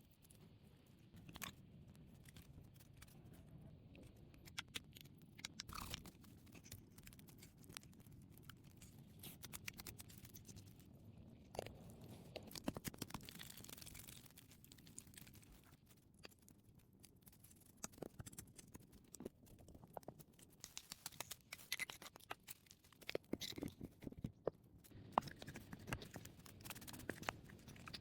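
Faint, irregular crunches, scrapes and small knocks of hands working with wood and earth, in scattered clusters with short quiet gaps.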